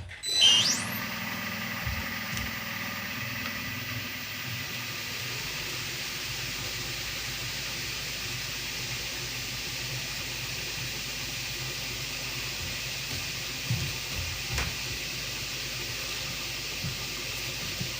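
Machine tool spindle spinning up with a rising whine, then running steadily with an even hiss and a faint constant tone, while holes are drilled in the lock body. A couple of light knocks come about two thirds of the way in.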